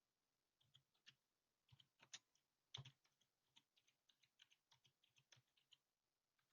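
Faint typing on a computer keyboard: a quick, irregular run of light key clicks.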